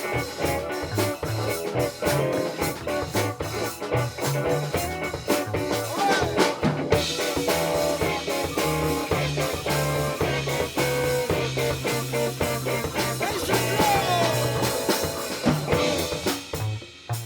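A live band playing an instrumental funk tune, with drum kit and guitar.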